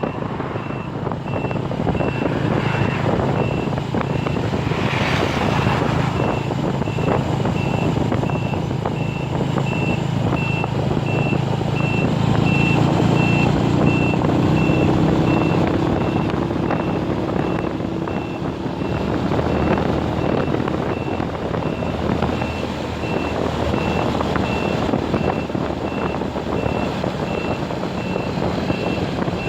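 A heavy vehicle's reversing alarm beeping steadily at an even pace over the rumble of its running engine. The engine rises in pitch briefly around the middle.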